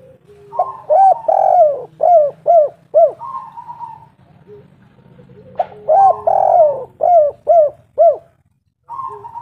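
Spotted dove (tekukur) cooing: two call phrases about five seconds apart, each a run of short coos that rise and fall.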